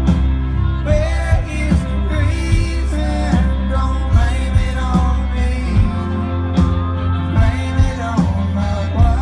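A live band playing: a singer's voice carries over a steady bass line and a regular drum beat.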